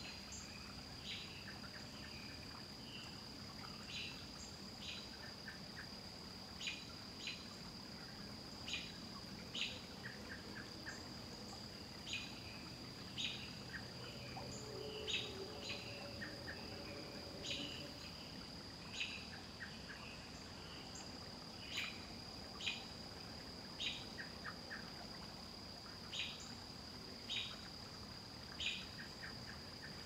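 A bird repeating short, sharp chirps about once a second over a steady high-pitched buzz.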